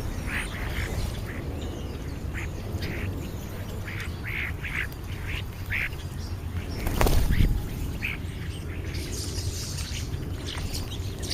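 American crows cawing, a string of short harsh calls, often two or three in quick succession, over a steady low rumble. A brief louder rumble comes about seven seconds in.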